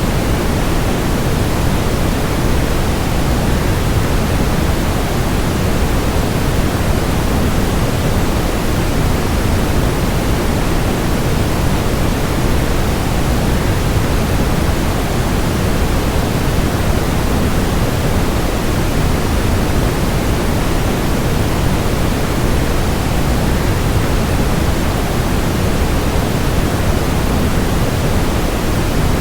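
Steady, even rushing noise of a waterfall blended with white noise, heavier in the low end and unchanging throughout.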